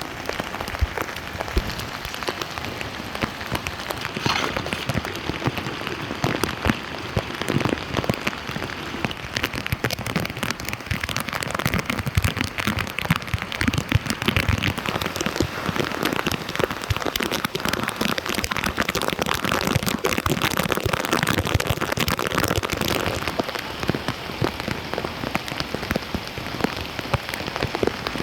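Heavy rain pattering steadily on water and pavement: a dense, even hiss of countless small drop impacts.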